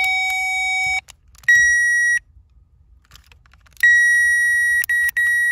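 Electronic circuit tester beeping as the wiring is probed. It gives a lower steady tone for about a second, then a shorter higher tone, and after a pause a longer higher tone lasting about two and a half seconds, broken twice near the end.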